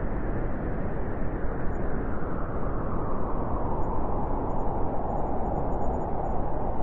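Strong wind blowing steadily through a forest in a snowstorm, a deep, even rushing noise.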